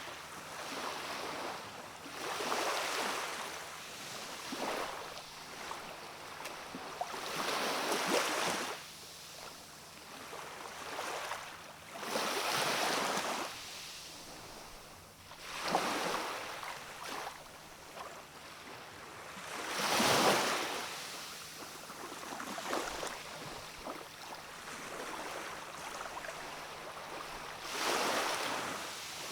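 Small waves of a calm sea washing in on a rocky shore, each one a soft rush that swells and falls away every few seconds. The largest wash comes about two-thirds of the way through.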